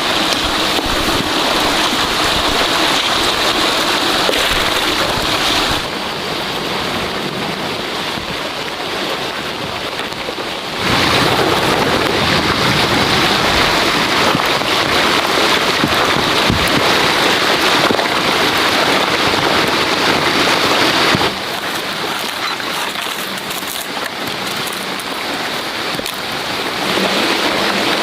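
Steady rushing water noise, dense and even, with no pitch. Its level steps up or down abruptly several times.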